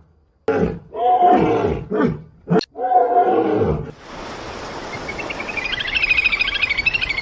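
An animal's harsh calls, four or five short pitched calls in quick succession, followed by a steady hissing stretch with fast, high chattering pulses toward the end.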